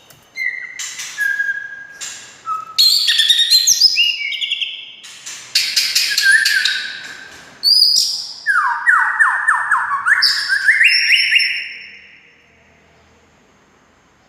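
White-rumped shama (murai batu) singing a loud, varied song of clear whistled notes, fast trills and rising phrases. The song stops about twelve seconds in.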